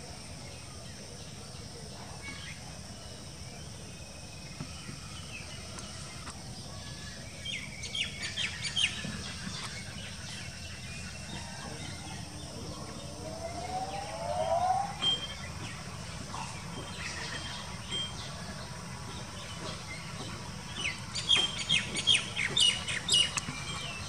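Birds calling in the trees. There are scattered bursts of short, high chirps, and a quicker run of chirps near the end, over a steady low background hum.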